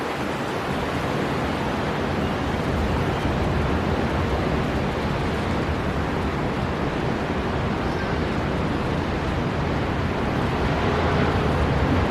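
Storm wind blowing over breaking sea surf: a dense, steady rush with a deep rumble, swelling slightly louder near the end.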